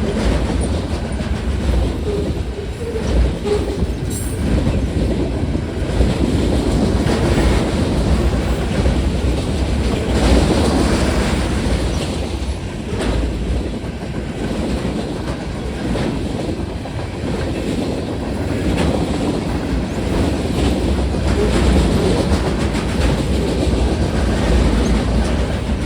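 Freight train cars rolling past at close range, with a steady rumble and the wheels clacking over the rail joints.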